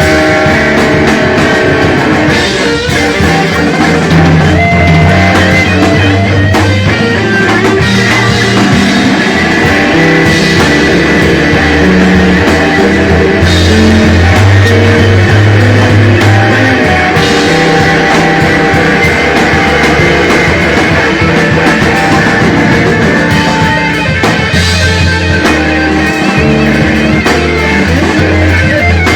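Live blues-rock band playing an instrumental passage of a slow blues: electric guitar lead over bass and drums.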